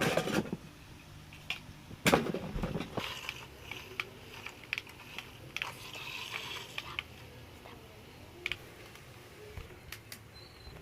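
Irregular clicks and knocks of a plastic remote control toy fire truck being handled, with one loud knock about two seconds in and a patch of rattling a little later, over a faint low hum.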